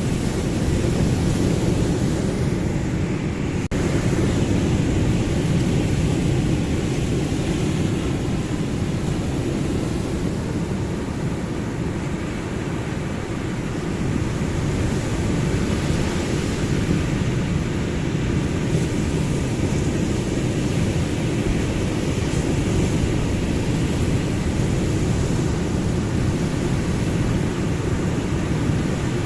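Ocean surf as a steady low rumble, swelling and easing only gently.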